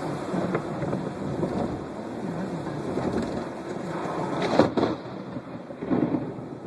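Thunderstorm: steady rain with a sharp crack of thunder from a nearby lightning strike about four and a half seconds in, followed by a smaller burst of rumble near six seconds.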